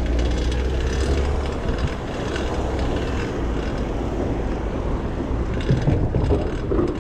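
Fixed-gear bicycle drivetrain running loudly as the bike is ridden, the chain whirring over a new rear cog, which the rider blames for the noise. Wind rumbles on the microphone, strongest in the first couple of seconds.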